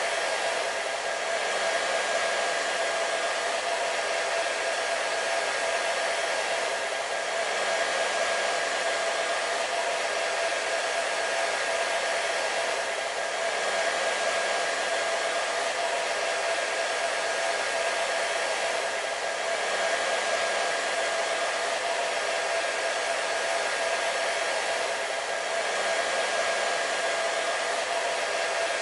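Hair dryer running steadily: a continuous rush of air with a steady whine on top, swelling slightly about every six seconds.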